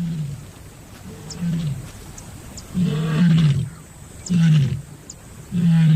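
Lioness calling in a series of short, low roars, about one every second and a half, growing louder after the first two. Her calls advertise that she is alone and ready to mate.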